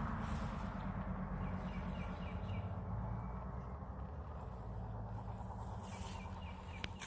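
Briggs & Stratton V-twin engine of a hot-rodded riding mower running steadily and gradually growing quieter, with two short runs of quick bird chirps over it.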